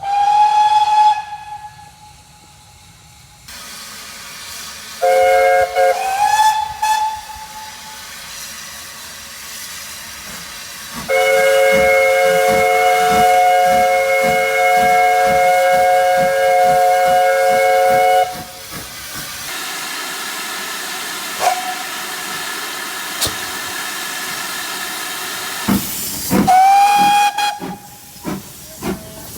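Steam locomotive whistles blowing in a series of blasts. There are short single-note toots that slide up onto their pitch, and a long chime whistle sounding a steady three-note chord for about seven seconds over the regular chuff of the engine's exhaust. Between whistles comes a stretch of steady steam hiss.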